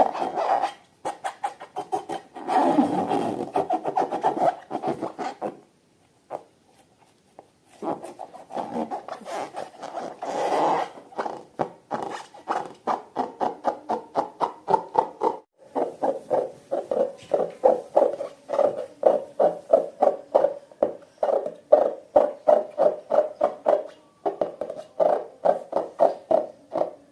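Slime being squished and mixed by hand, with rhythmic sticky squelches about three a second.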